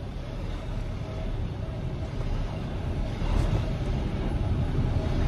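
Tractor-trailer's diesel engine running at low speed while the truck is manoeuvred, heard from inside the cab as a steady low rumble that grows a little louder partway through.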